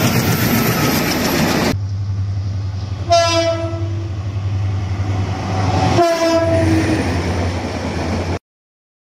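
Express train passing close at speed, wheels and diesel locomotive running. After a cut, an approaching diesel locomotive's engine drone with two horn blasts, each about a second long and about three seconds apart, then the coaches rolling past. The sound cuts off suddenly near the end.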